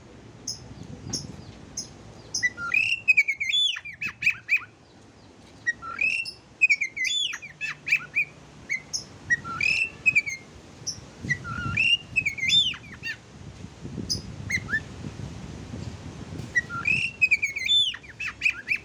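Oriental magpie-robin song: short phrases of clear whistled notes that slide up and down, repeated every few seconds, with sharp high chips between them.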